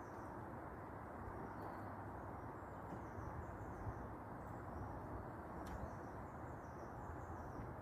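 Faint bird calls over a steady, low rushing background noise, with an occasional faint click.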